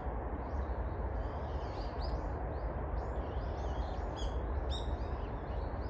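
Several small birds chirping and twittering in many short, quick calls, over a steady low background rumble.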